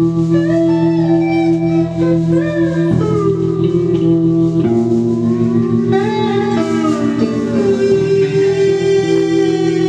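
Instrumental post-rock played live on electric guitar and electric bass: sustained low notes under a gliding, bending lead guitar line.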